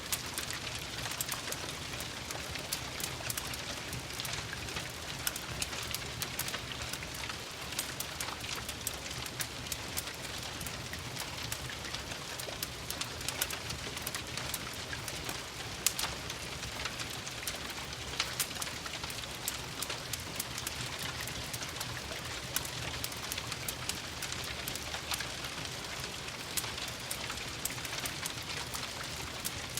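Steady rain hissing, mixed with frequent sharp crackles and pops from a wood fire in a fireplace.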